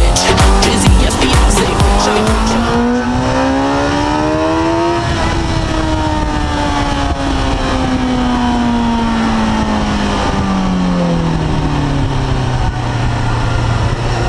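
Suzuki GSX-R 1000 K3's inline-four engine heard from on board at speed. Its pitch rises for about five seconds under acceleration, then falls slowly as the bike slows for a corner, and settles to a lower steady note near the end.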